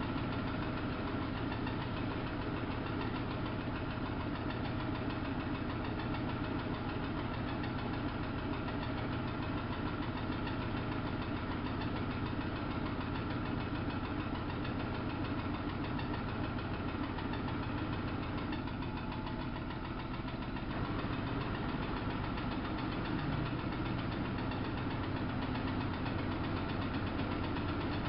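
Samsung WF71284 front-loading washing machine running: a steady mechanical hum with a brief dip in level about two-thirds of the way through.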